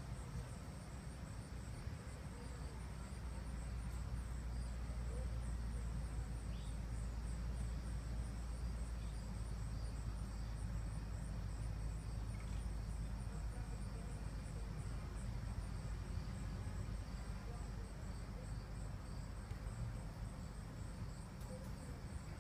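Insects, cricket-like, chirping in a steady high-pitched rhythm, over a constant low rumble.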